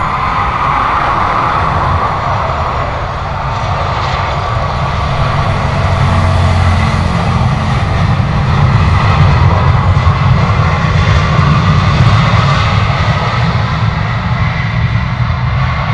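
Jet airliner engines running with a deep, steady rumble that grows louder about nine to twelve seconds in.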